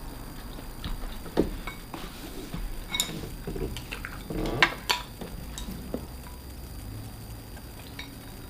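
Utensils clinking against dishes while eating: a few scattered sharp clicks and clinks, the loudest about three and five seconds in.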